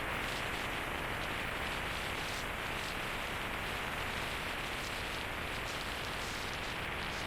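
Steady rush of wind noise on the microphone of a moving motorcycle, with no engine note standing out.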